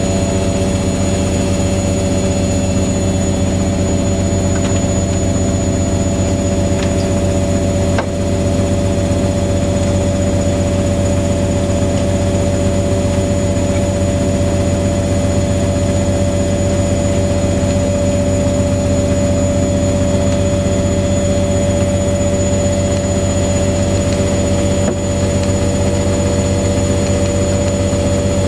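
Front-loading washing machines, a Fisher & Paykel WM1490F1 and a Hoover A8582 Ecologic washer dryer, running with a steady motor hum and a constant whine.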